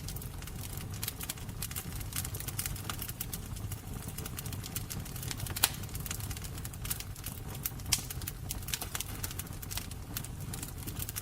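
Wood fire burning, steady low rumble of flames with constant crackling and an occasional louder pop.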